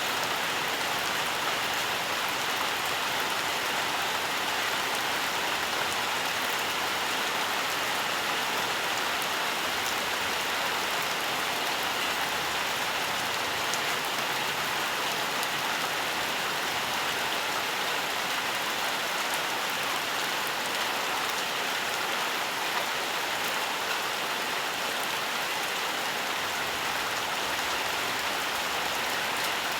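Steady rainfall, a dense even patter of drops on surfaces with no thunder.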